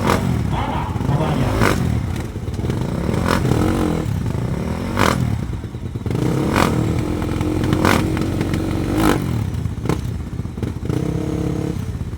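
Dirt-track racing motorcycle engines running and revving, with several sharp cracks spread through the sound.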